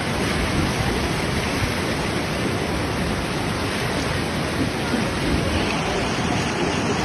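Floodwater rushing steadily: a river in spate after a landslide upstream.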